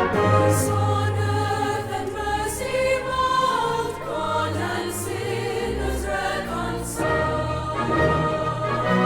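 A youth choir singing a Christmas song with a symphony orchestra.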